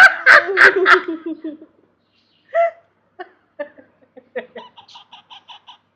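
Choppy, hiccup-like laughter for about a second and a half. Then soft clicks and short chirps from pet parrots, ending in a quick even run of little chirps.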